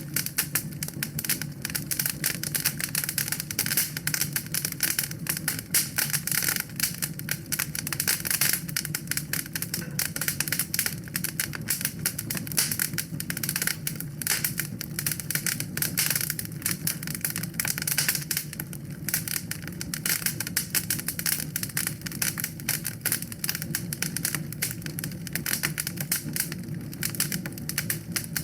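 Wood fire in a fireplace crackling steadily: a dense, rapid, irregular stream of pops and snaps over a low steady hum of the flames.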